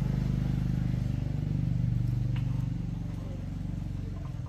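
Motorcycle engine idling steadily, its note dropping a little near the end.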